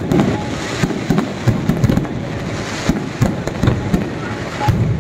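Fireworks going off: a dense, irregular run of bangs and crackles.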